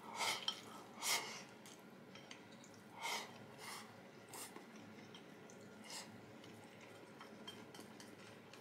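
Faint chewing and breathing of a person eating, a handful of short soft sounds spaced a second or so apart.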